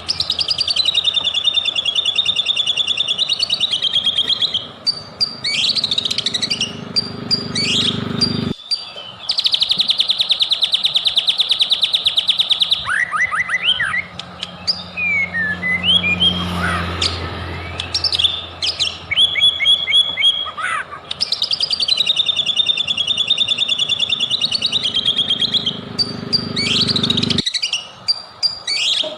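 White-rumped shama (murai batu) singing: varied whistled phrases and chattering notes, with a long, fast, even trill near the middle, over a low steady hum. The song is a spliced recording, its background cutting off abruptly about a third of the way in and again near the end, and one phrase sequence recurs.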